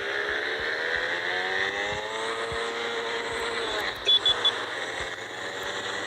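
Motorcycle engine accelerating, its pitch rising steadily for about three and a half seconds over wind noise, then easing off. Three short high beeps come a little after the middle.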